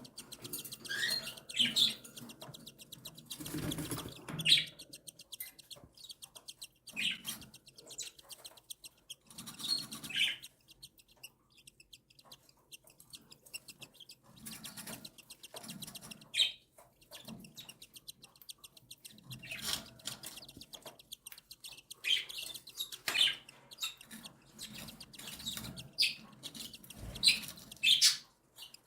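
Cockatiel chicks begging for food: short bursts of rapid, squeaky chirping that come and go many times.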